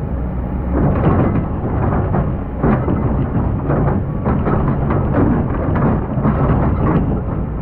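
Excavator's diesel engine running with a heavy low rumble, and repeated clattering of sand and stones being dug and dumped by its bucket.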